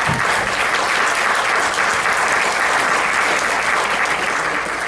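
Audience applauding steadily at the end of a song, dying down at the very end.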